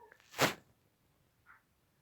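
A single short, sharp burst of noise about half a second in, then a faint brief blip about a second later.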